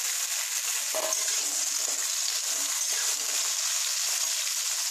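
Sliced vegetables (brinjal, potato, cowpeas, ridge gourd) frying in hot mustard oil in a kadai: a steady sizzling hiss.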